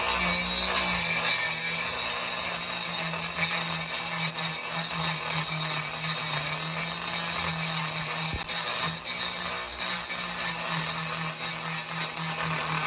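A small power tool running steadily with a hiss, working on wood; a single sharp click about eight seconds in.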